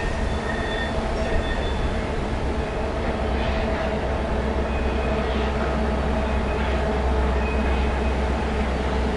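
Freight train running, a steady heavy rumble, with a few short high wheel squeals in the first second or two.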